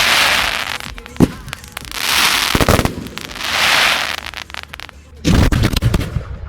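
Professional fireworks display: swells of hissing crackle about a second long, punctuated by sharp single bangs, then a rapid flurry of bangs about five seconds in.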